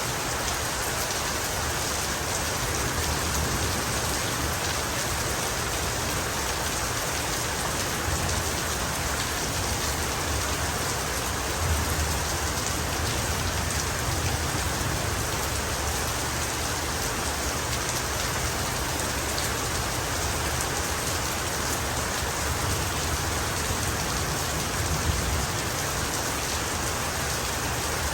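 Heavy rain falling steadily, an even hiss of countless drops on surfaces with no break.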